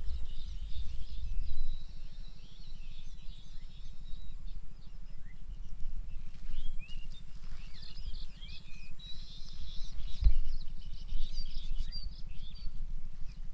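Many small birds chirping and twittering, in bursts that thin out in the middle. Under them runs a steady low rumble, and a single thump comes about ten seconds in.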